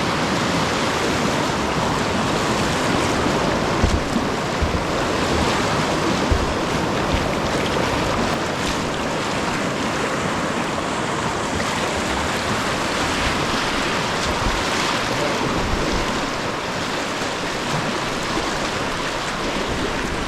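Rushing white water of a river rapid, a steady loud rush, with a few short low thumps on the microphone about four and six seconds in.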